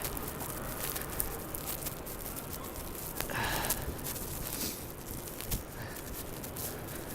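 Outdoor street ambience in a blizzard: a steady rush of wind and snow noise with scattered small clicks, and a brief louder swell about three seconds in.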